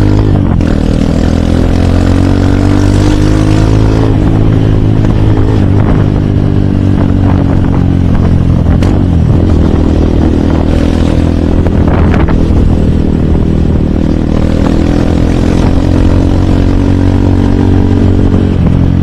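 Hero Hunk motorcycle's single-cylinder four-stroke engine running under way. Its pitch climbs and falls with the throttle, drops sharply about nine seconds in, and climbs again.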